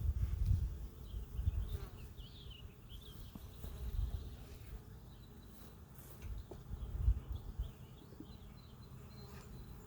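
Honey bees buzzing around an open hive, with several low rumbling bumps on the microphone, the loudest near the start and about seven seconds in. Faint high chirps come in the first few seconds.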